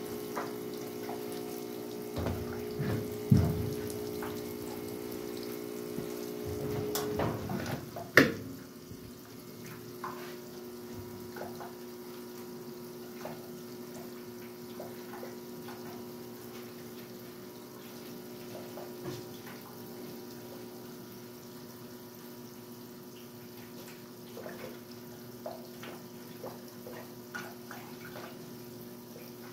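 Westinghouse washing machine running with water flowing into it, over a steady hum. There are knocks about three and eight seconds in, the second one the loudest, and the hum changes after it.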